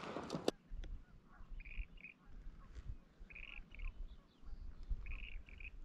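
A bird calling faintly: three short two-note calls, about a second and a half apart, over a low rumble.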